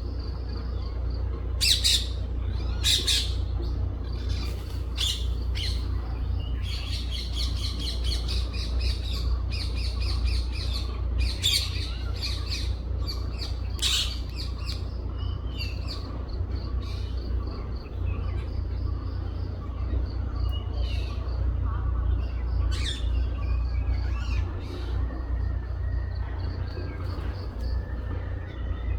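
Several birds chirping and squawking, with sharp calls packed most densely in the first half, over a steady low rumble.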